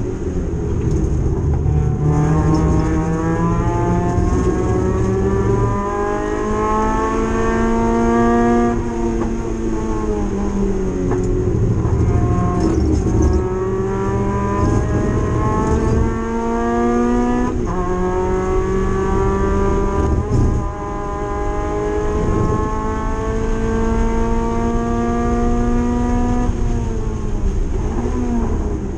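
Spec Mazda MX-5 race car's four-cylinder engine heard from inside the cabin at racing speed, its revs climbing in long pulls. The pitch drops sharply at upshifts and falls away twice, about a third of the way in and near the end.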